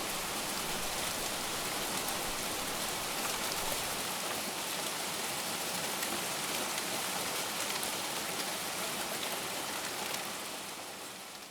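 Steady heavy rain falling, a dense hiss with fine drop patter, fading out over the last second or so.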